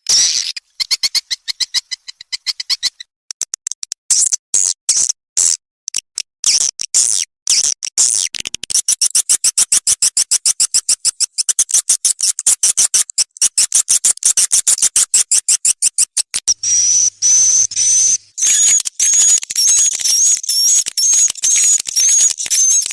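Edible-nest swiftlet calls from a swiftlet-house lure recording: rapid trains of dry, high clicks that grow dense partway through, then, about 17 seconds in, a string of high rising chirps repeated about twice a second.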